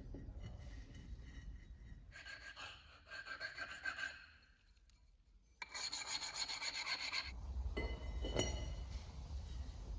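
Rapid rasping, scraping strokes on a hard surface in two bursts of about two seconds and a second and a half, then a low rumble with a single knock.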